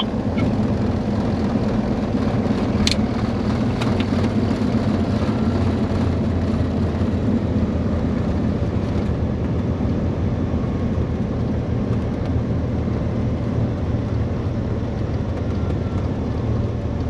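Piston aircraft engine running with a steady drone, with a few faint clicks about three and four seconds in.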